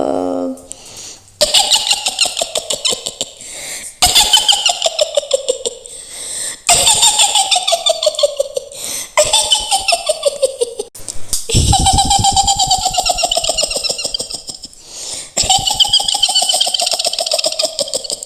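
Cackling laugh of the Mak Lampir witch character: a high, rapid, pulsing cackle that falls in pitch through each bout. It comes in about six bouts of two to four seconds each, with short breaks between.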